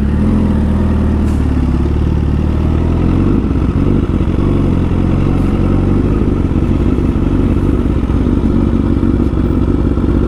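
Honda CBR1000RR Fireblade's inline-four running under way through an SC Project aftermarket exhaust, a steady loud engine note whose pitch changes about three seconds in.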